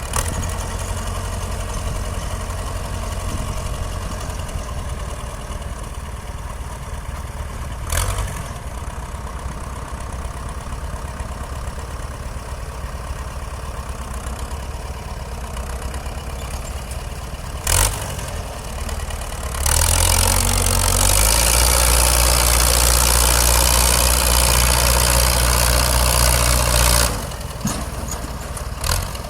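Tractor's Chevrolet Cimarron four-cylinder diesel (a Bedford six cut down to four) running at idle, with two sharp knocks along the way. About two-thirds of the way in it runs up much louder for about seven seconds, then drops back to idle.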